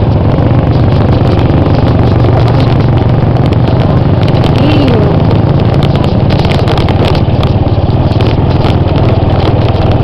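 Motor vehicle running steadily with loud, unbroken engine and road noise and scattered rattles.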